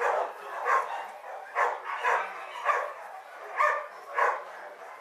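Dog barking repeatedly, about seven short barks at an uneven pace of roughly one every half second to a second.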